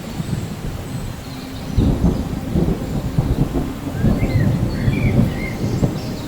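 Steady rain with thunder. A low, uneven rumble of thunder sets in about two seconds in and rumbles on until near the end.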